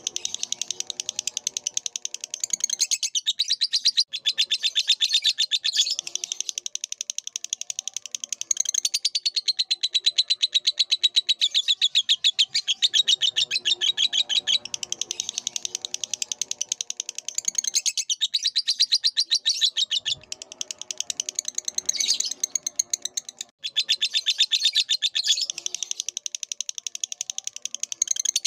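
Lovebird chattering in long, rapid trains of shrill chirps, each run lasting several seconds and broken by brief pauses, with softer, lower warbling notes mixed in at times.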